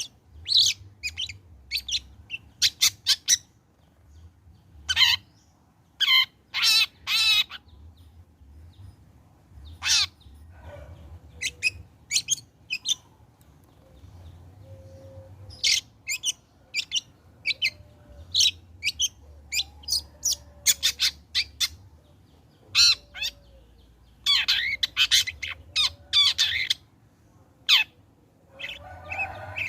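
A long-tailed shrike (cendet) singing in loud clusters of short, harsh, scratchy notes, with brief pauses between the clusters.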